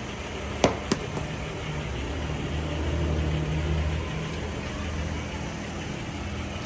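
Tractor engine running steadily with a low hum that swells for a second or so midway, with two sharp clicks about a second in.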